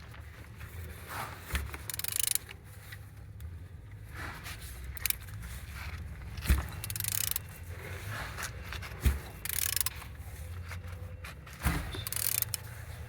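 D5224T5 diesel engine being turned over by hand with a ratchet on the crankshaft: ratchet clicking in repeated strokes, with a sharp knock every few seconds. It turns freely, which the seller takes as a sign of very strong compression and a sound engine.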